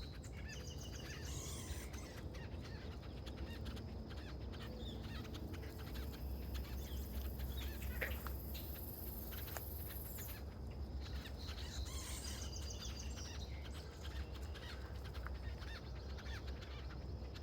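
Birds calling in short clusters of high calls near the start and again about two-thirds of the way through, over a steady low rumble.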